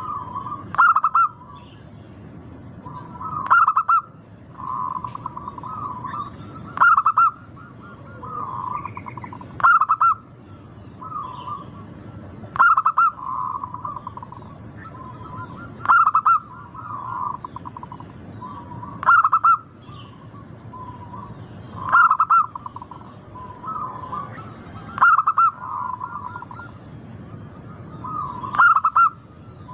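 Zebra dove (perkutut) cooing its song over and over, about one loud phrase every three seconds, with softer rolling coos between the phrases.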